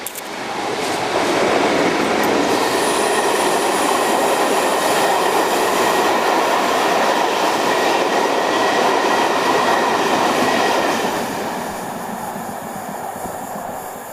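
A train running past on the line: loud wheel-and-rail running noise that builds about a second in, holds steady, then eases off after about eleven seconds.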